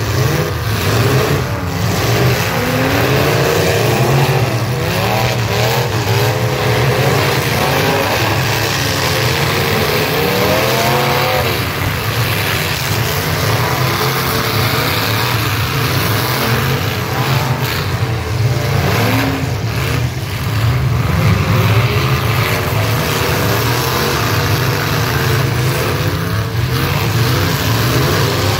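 Several demolition derby cars' engines revving hard at once, their pitches rising and falling over a continuous low rumble, with a few sharp thumps of cars colliding.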